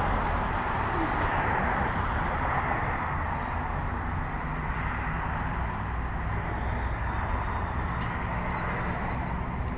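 Distant jet airliner, a Southwest Boeing 737, running its engines up for takeoff: a steady, even roar, with a thin high whine joining in about six seconds in.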